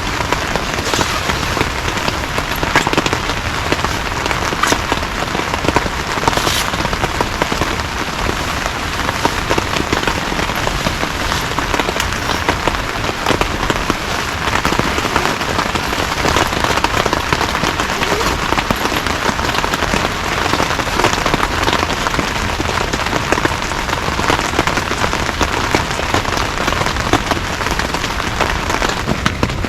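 Heavy rain falling steadily: a dense patter of drops with an occasional louder drop strike.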